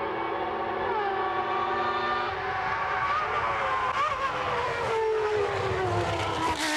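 Car engines running at high revs, several pitches at once. One dips about a second in, and another falls steadily over the last couple of seconds as the engine comes off the throttle.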